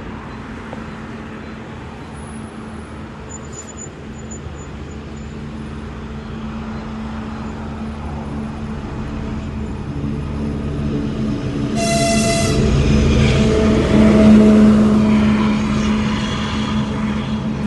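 2TE25KM twin-section diesel locomotive approaching with a freight train, its diesel engine drone growing louder. It gives one short, high horn blast about twelve seconds in, and the engine is loudest soon after as the locomotive passes close by.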